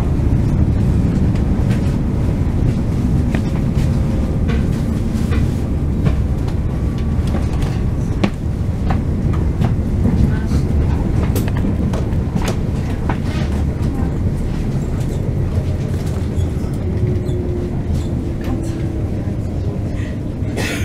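Train running along the track: a steady low rumble with frequent irregular clicks and knocks from the wheels on the rails.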